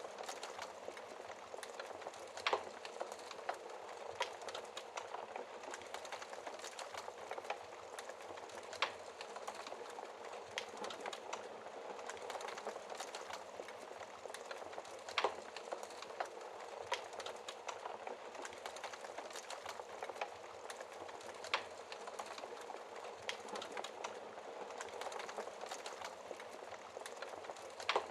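Wood fire crackling in a fireplace: a soft steady hiss with frequent small irregular clicks and a handful of louder sharp pops scattered through.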